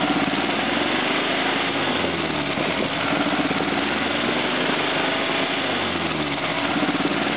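Subaru 1800's 1.8-litre overhead-valve flat-four engine running roughly on only two cylinders, two spark plug leads disconnected. Its speed rises and sags a little a few times as the throttle is worked, but it is reluctant to rev.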